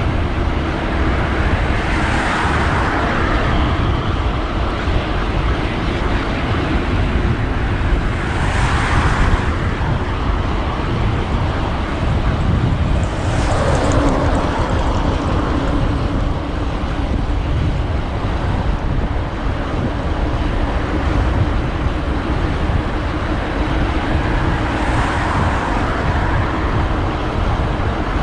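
Wind rushing over the microphone of a moving road bike, over steady road traffic noise. Vehicles pass about four times, each swelling up and fading away, one of them dropping in pitch as it goes by.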